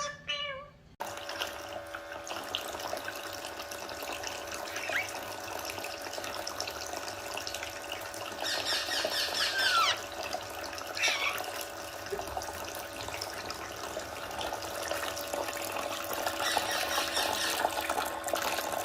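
Tap water running steadily into a sink, with a parrot's short calls over it: a rapid chatter and a falling whistle about halfway through, and more chatter near the end.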